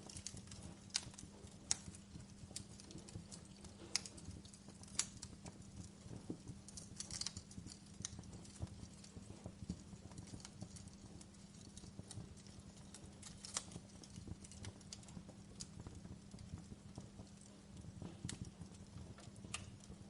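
Wood fire burning in a fireplace: irregular sharp crackles and pops over a low steady rumble, with a faint steady hum underneath.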